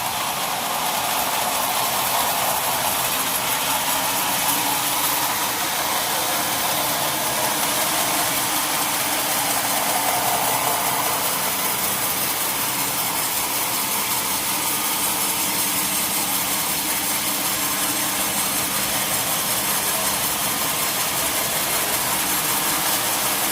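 Sawmill machinery running steadily, a continuous mechanical noise with a faint hum under it and no breaks.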